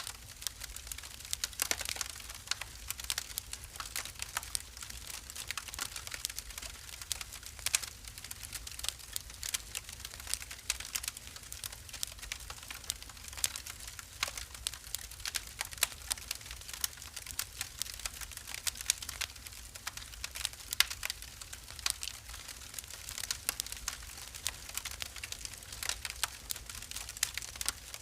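Wood fire burning in a fireplace, crackling and popping irregularly, with several sharp snaps a second over a low steady rumble.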